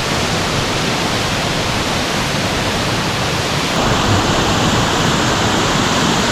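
A waterfall's steady rush of falling water, getting a little louder about four seconds in.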